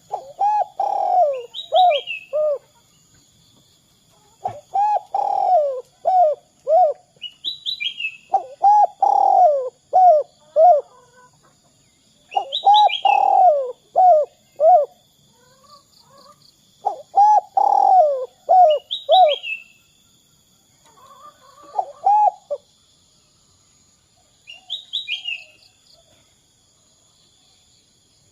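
Spotted dove (derkuku) cooing its multi-note song phrase, repeated about every four seconds. The cooing stops about three quarters of the way through. Another small bird gives short high chirps between the phrases.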